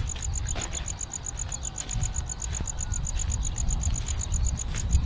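A cricket chirping in a fast, even run of high-pitched pulses, about eight a second, over a low rumble on the microphone.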